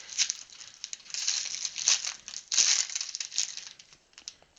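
Plastic wrapper of a trading-card rack pack crinkling and crackling in bursts as it is handled and torn open, quieter near the end.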